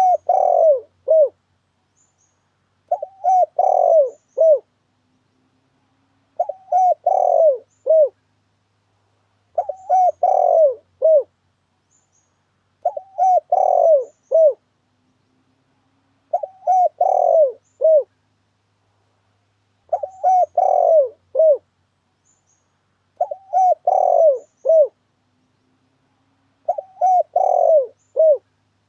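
Spotted dove (tekukur) cooing: a phrase of several falling coo notes, repeated about every three and a half seconds with complete silence between. This is the dove's song played as a lure call for trapping.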